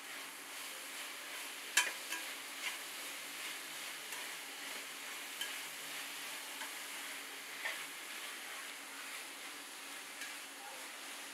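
Sliced tomatoes, onions and green chillies sizzling in hot oil in a pot, stirred with a metal spatula that scrapes and clicks against the pan now and then. The sharpest scrape comes about two seconds in.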